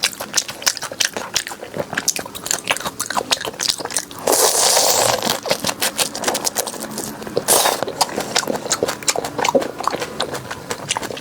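Close-miked biting and chewing of crunchy food: rapid, crisp crunches, with a longer hissy rasp about four seconds in and a shorter one about seven and a half seconds in.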